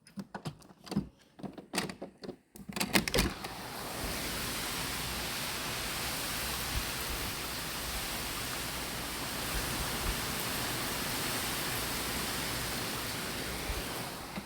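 A few knocks and clicks, then from about three seconds in a steady, even rushing noise of hurricane rain and wind.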